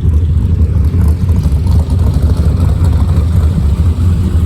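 Car engine idling steadily with a deep, low rumble.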